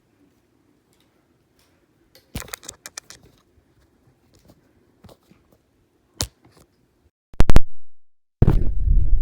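Plastic vacuum-cleaner parts being handled: scattered clicks and knocks, then loud rustling and scraping near the end.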